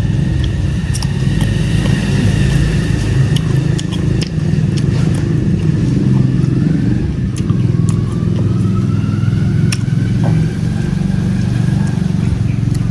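An engine running steadily, a low rumble at an even pitch, with a few short clicks over it.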